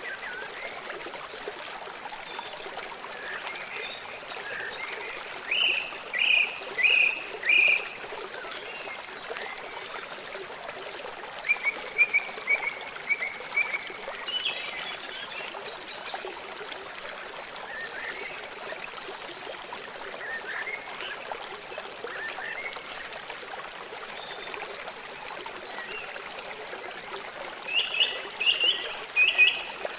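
Steady running water of a stream, with short high animal calls over it: a run of four notes about six seconds in, a quick rattle of notes around twelve seconds, and another burst of notes near the end.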